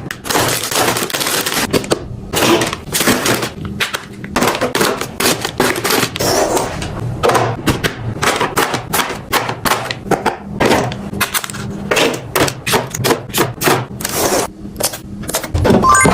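Dense, quick clicking, tapping and clattering of hard plastic containers, lids and packages being handled and set down, several knocks a second.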